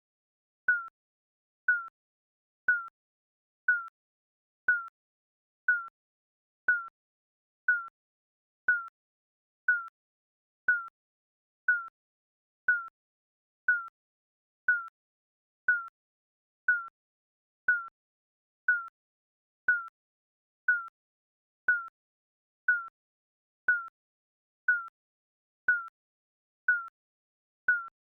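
Digital countdown timer beeps: a short, high electronic beep once a second, each dipping slightly in pitch, in a steady regular rhythm.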